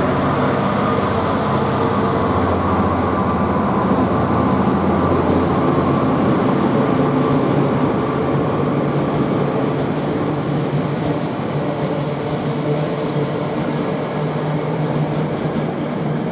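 Class 66 diesel locomotive's two-stroke V12 engine running as it hauls a freight train past, a steady drone over the rumble of the train on the rails, easing slightly near the end.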